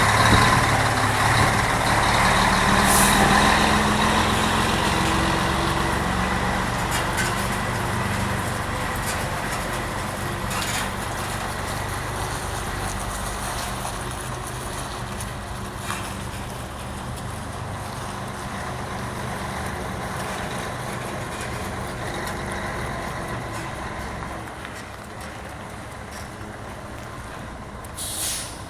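Scania 113 truck's diesel engine running, growing steadily fainter. A brief hiss comes near the end.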